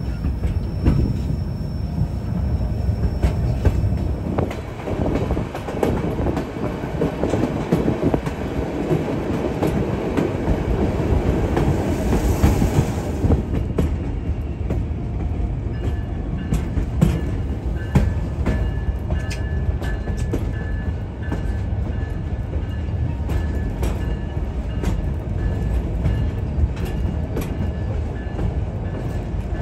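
A White Pass & Yukon Route passenger train running along the track, heard from aboard: a steady rumble with frequent clicks and knocks of the wheels over the rails. A faint high whine joins about halfway through.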